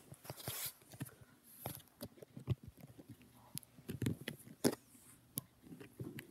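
A dog wrestling with a cushion: irregular scuffling, taps and soft thumps.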